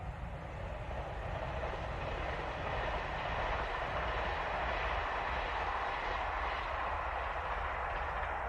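Diesel train running past on the rails, growing louder over the first few seconds and then holding steady.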